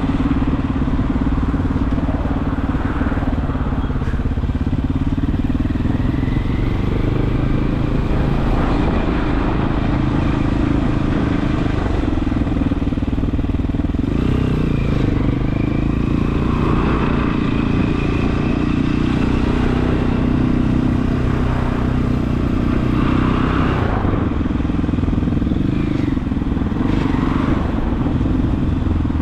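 Regulmoto TE enduro motorcycle's engine running steadily while riding, its pitch shifting slightly with throttle. A faint high whine comes and goes in the middle.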